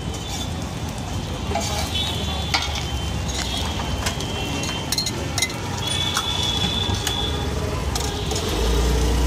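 Egg omelette sizzling on a flat iron griddle, with a few sharp clicks of a metal spatula against the griddle.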